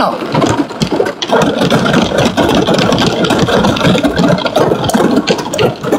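Car engine running, heard from inside the cabin as a loud, rough, steady noise.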